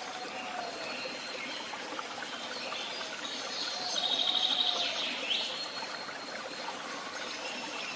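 Several woodland birds singing and calling over a steady background rush. A fast, high trill about four seconds in is the loudest call.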